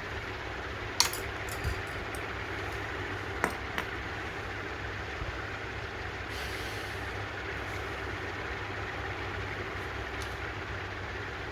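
Steady low hum with a few sharp light clicks, the loudest about a second in and a pair around three and a half seconds in, typical of small metal carburetor parts being handled on a bench.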